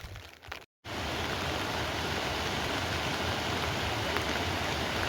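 Steady rushing of water, loud and even with a low rumble underneath, after a sudden brief silence just under a second in.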